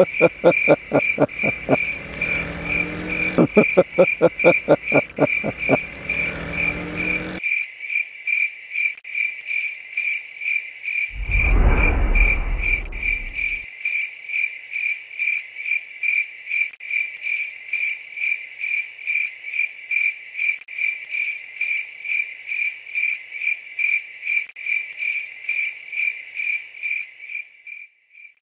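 Crickets chirping steadily, about two chirps a second, fading out at the end. A lower, rapid rattling sound runs under the chirping for the first seven seconds, and a low rumble swells and fades about twelve seconds in.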